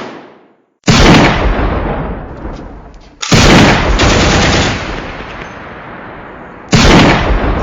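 Gunfire sound effects: three very loud blasts a few seconds apart, each trailing off in a long, echoing tail.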